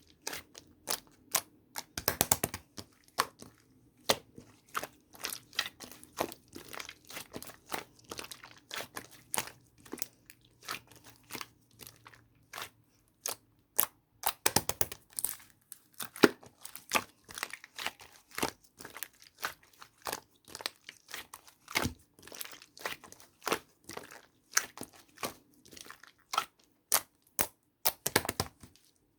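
Dried clay being cracked and crumbled by hand: a dense, irregular run of small crunches and crackles, with louder clusters of cracking about two seconds in, around the middle and near the end.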